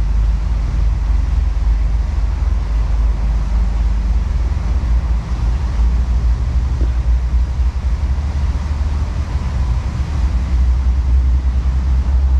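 Steady low rumble of road traffic, rising and falling in level without a break.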